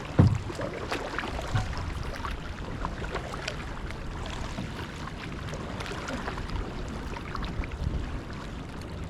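Kayak paddling: the paddle blades dipping into the water, with repeated small splashes and drips. Wind rumbles on the microphone, and there is one low thump right at the start.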